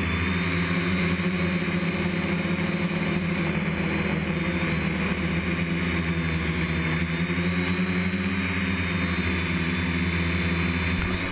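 DJI F550 hexacopter's motors and propellers running with a steady, even drone.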